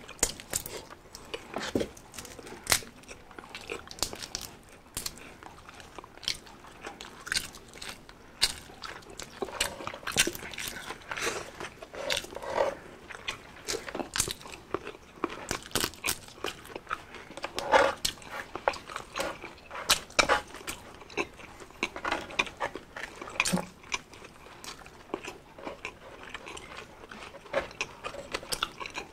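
Two people chewing and crunching fried food as they eat with their hands, heard as a steady scatter of short, sharp mouth sounds.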